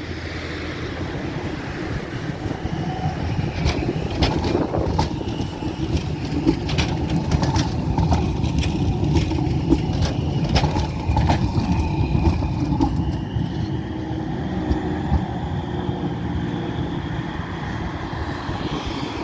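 Rotterdam tram running past on its rails, with a run of sharp clicks in the middle and a faint high whine from the wheels near the end.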